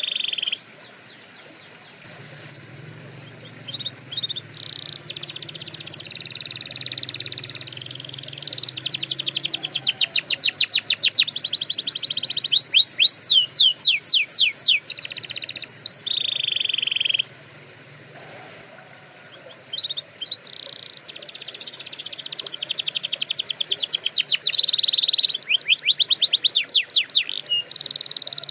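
Canary singing in long phrases of rapid trills and fast repeated notes, some of them sweeping up and down in pitch. The phrases are broken by brief pauses, one near the start and one a little past the middle.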